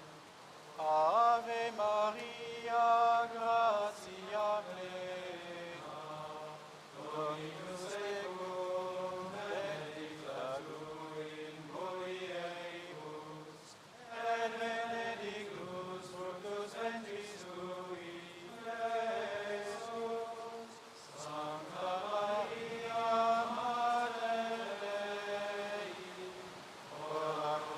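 Crowd chanting prayers in unison in long, sung-out phrases, a leading voice alternating with the many-voiced response, as in a rosary recited aloud.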